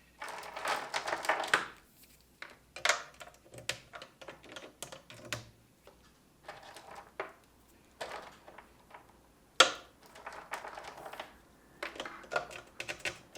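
Irregular short clicks and brief pitched pings from a Eurorack modular synthesizer, coming in uneven clusters like typing.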